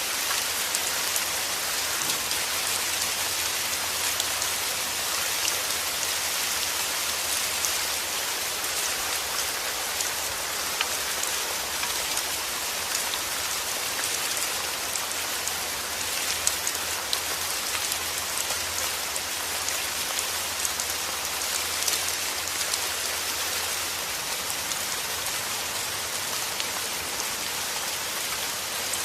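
Heavy rain falling steadily, a dense hiss of drops with many small sharp drop clicks.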